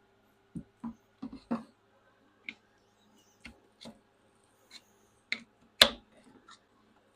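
Scattered clicks and knocks of tools and parts being handled while taking apart a skid steer's hydraulic control valve, about ten short sharp hits with the loudest a little before six seconds in.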